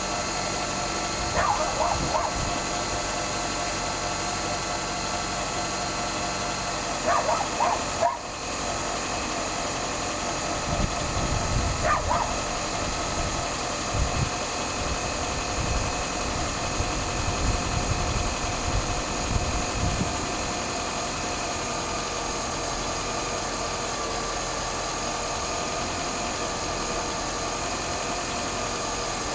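Mitsubishi Galant's engine idling steadily, an even hum with a few constant tones. A few short animal calls sound about 1.5, 7 and 12 seconds in.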